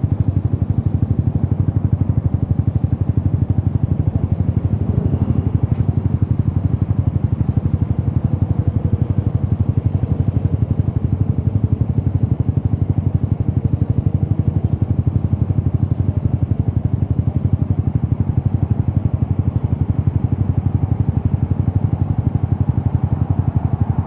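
Yamaha XSR 155's single-cylinder engine running steadily through an Akrapovic exhaust, a rapid even pulsing with no revving up or down.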